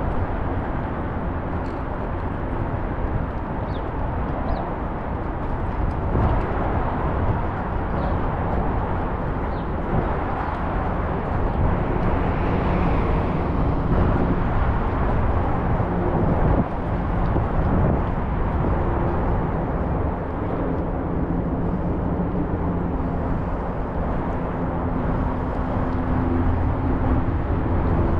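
Riding a scooter through city traffic: steady rushing road and wind noise. From about twenty seconds in a steady engine hum from nearby traffic joins.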